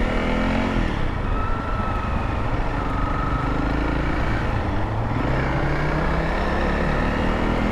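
A motorcycle engine running under way, with steady road and wind noise. The engine note rises just after the start and falls again a few seconds later as the bike speeds up and slows.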